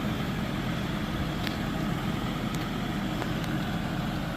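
Vehicle engine running steadily at low speed, an even low rumble, with a few faint clicks over it.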